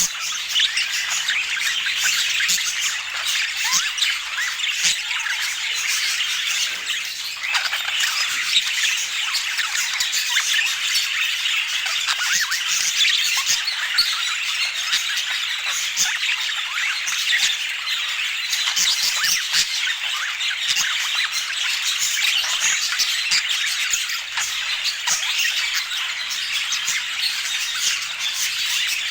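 Budgerigars chattering: a dense, unbroken stream of quick chirps, squeaks and squawks from several birds at once.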